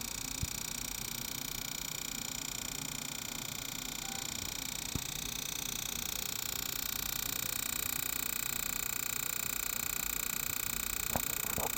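HP computer's CD drive spinning a disc with a continuous fast clicking over a steady whirr, a fault noise that came on while it was playing the CD. Single sharper clicks come about half a second and five seconds in, and a few louder clicks near the end.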